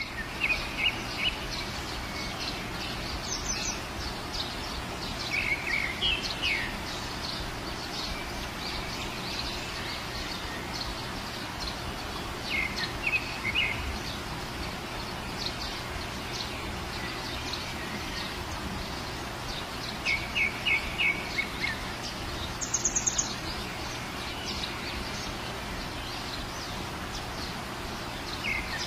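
Steady rain hiss with small birds chirping over it: short bursts of chirps and trills every few seconds, one higher, quicker trill about two-thirds of the way through.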